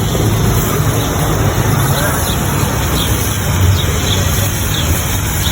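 Small engine running steadily under a continuous hiss of water being sprayed high into a tree.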